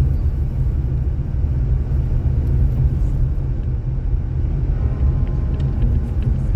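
Steady low road rumble of a car driving, from its tyres and engine.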